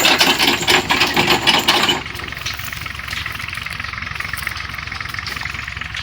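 Tractor engine running under load, loud and rattling for about two seconds, then dropping abruptly to a quieter, steady running.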